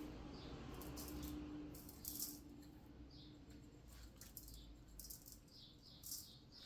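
Faint rattling and rustling as seasoning is added to raw chicken pieces, in short scattered bursts.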